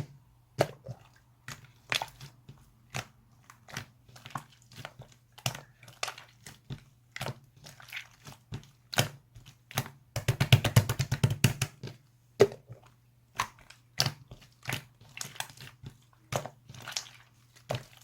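Slime being squished, stretched and pressed by hand, giving scattered wet pops and sharp clicks, with a dense run of rapid crackling about ten seconds in.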